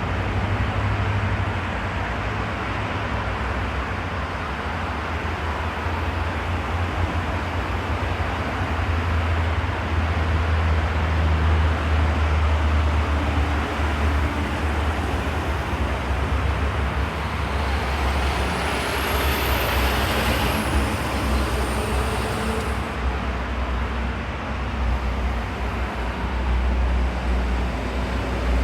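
Steady city traffic: a continuous low rumble of cars and heavier vehicles on nearby roads. About two-thirds of the way in, a high-pitched whine rises, holds for a few seconds, then dips and stops.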